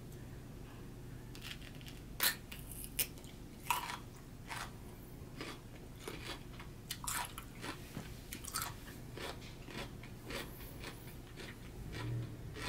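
Close-miked crunching and chewing of a raw Persian cucumber: crisp, sharp bites, loudest about two to four seconds in, then continued crunchy chewing.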